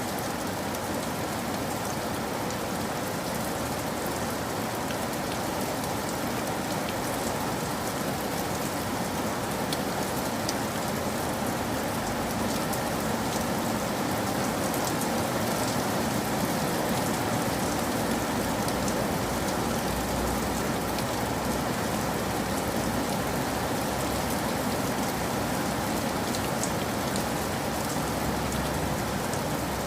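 Steady rain falling, an even hiss with scattered sharp drop ticks. A low rumble builds underneath from a little under halfway through.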